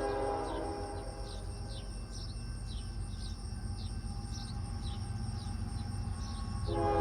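Locomotive horn chord fading out at the start, then a steady low train rumble under a run of short, high, falling chirps about twice a second; the multi-tone horn sounds again near the end.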